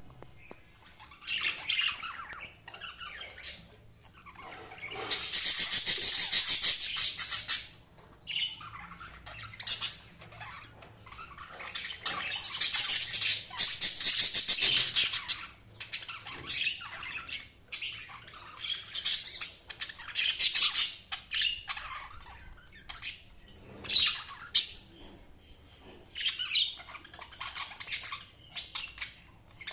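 Budgerigars chirping and chattering, with dense, loud bouts of rapid warbling about five seconds in and again around twelve to fifteen seconds, and single chirps and squawks between.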